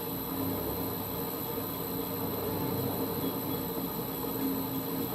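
Holbrook C8 toolroom lathe running steadily at low speed with a constant hum, while a parting-off tool is fed slowly into the work.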